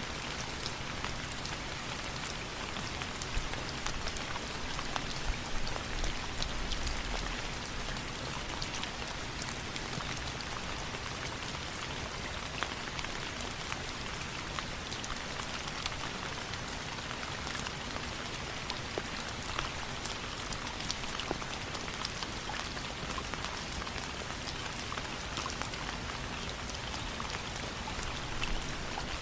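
Steady rain falling, with many scattered small ticks of drops striking a surface.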